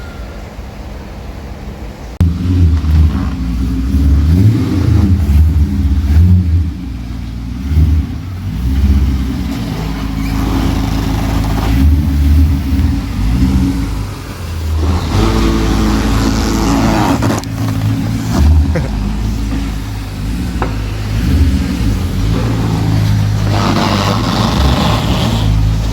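V8 car engine, loud from about two seconds in, idling and blipped up in revs again and again.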